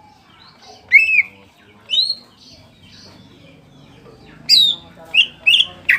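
Green leafbird (cucak ijo) giving loud, sharp, short whistled calls, the hard "tembakan" shots of a bird in a hyper "ngentrok" mood though it is moulting: single calls about one and two seconds in, then a quick run of four near the end.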